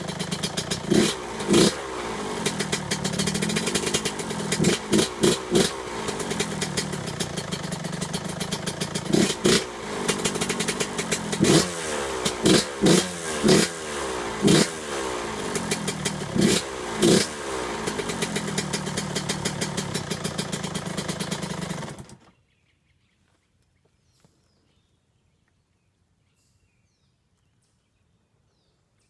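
2001 Suzuki RM125's 125 cc single-cylinder two-stroke engine, on its stock pipe and silencer, idling with repeated quick throttle blips in bursts, then the sound cuts off abruptly.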